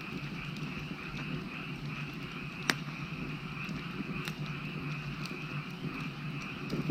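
Wood fire crackling, with a few sharp pops, the loudest about two and a half seconds in, over a steady chorus of frogs.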